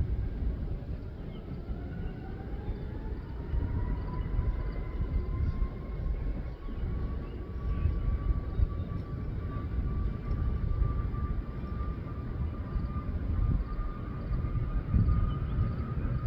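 Boeing 737 MAX 8 jet engines (CFM LEAP-1B) spooling up with a deep rumble, their whine rising steadily in pitch over about ten seconds and then holding, as takeoff thrust is set.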